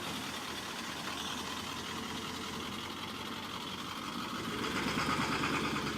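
A small motor running steadily, getting louder for the last couple of seconds.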